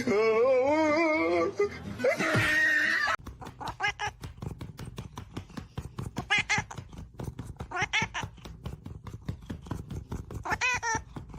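A cat yowling: a long wavering call, then a second call, then several short meows spaced a second or two apart over a quieter run of rapid ticking.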